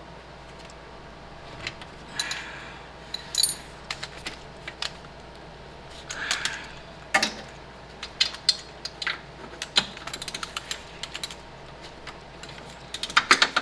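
Metal hand tools clinking and clicking: scattered sharp metallic strikes, with a few quick runs of clicks, the busiest near the end.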